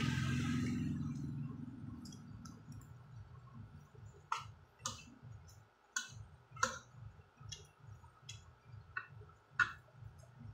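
Chewing in a soft, even rhythm of about three chews a second, louder over the first couple of seconds. From about four seconds in, a spoon and fork clink sharply against a ceramic plate eight or so times.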